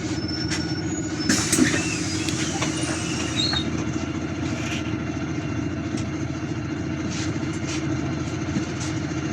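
City bus engine running steadily with road noise, heard from inside the passenger cabin, with scattered short rattles and clicks.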